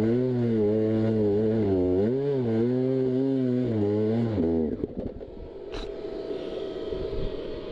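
Two-stroke dirt bike engine running at low revs with small throttle blips, then dropping in pitch and cutting out abruptly about four and a half seconds in. A sharp click follows over quieter engine and wind noise.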